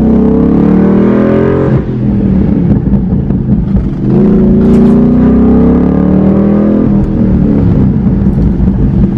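Ford Mustang GT's 5.0 Coyote V8 revving hard through open exhaust cutouts, in effect a muffler delete: two long climbs in pitch, each cut off sharply when the throttle closes, with an uneven rumble between and after.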